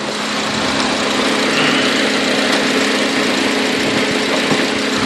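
Acura RSX Type-S's 2.0-litre four-cylinder engine idling steadily with a small knocking noise that the owner cannot explain. The knock ticks faintly a few times near the end.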